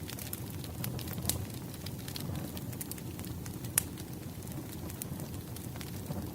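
Firewood fire burning with a steady low rush of flame and scattered sharp crackles, one louder pop near the middle.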